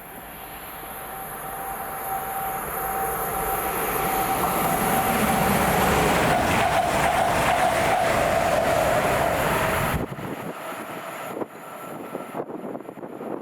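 A train approaching and passing through the station, growing steadily louder, with a steady whine over the rush and rapid clatter of wheels on the rails. The sound cuts off abruptly about ten seconds in, leaving quieter scattered clicks.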